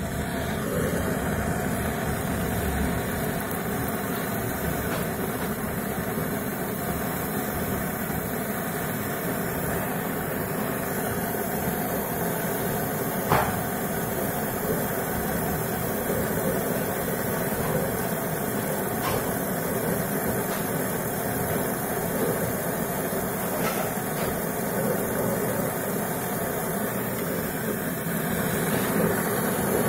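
Gas brazing torch burning with a steady hissing roar while the new compressor's pipe joints on a refrigerator are brazed; it starts suddenly, with one short click partway through.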